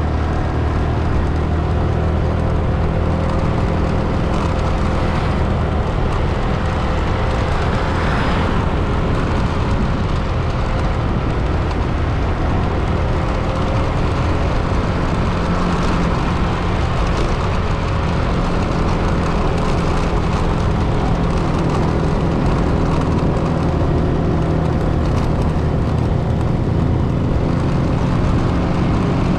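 A vehicle being driven: steady engine and road noise with a constant low rumble.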